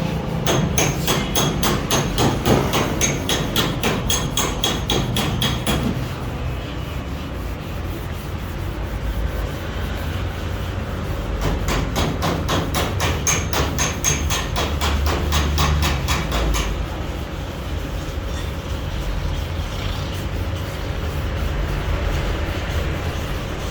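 Rapid, regular hammer taps on metal with a slight ring, in two runs of about five seconds each. Between the runs there is a low rumble.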